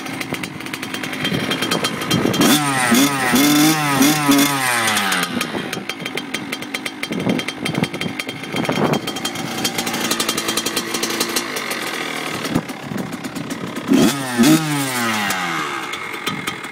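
2008 Kawasaki KX100's two-stroke single-cylinder engine running shortly after a cold start, not yet fully warmed up. It idles, with a spell of throttle blips revving it up and down about two seconds in, and again briefly near the end.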